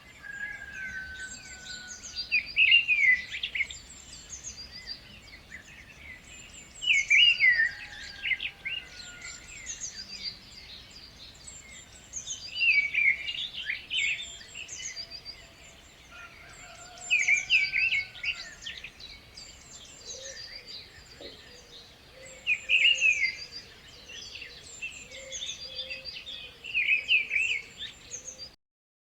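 Birds singing: a loud, chirping song phrase repeats about every five seconds, six times, over continuous twittering and chirping.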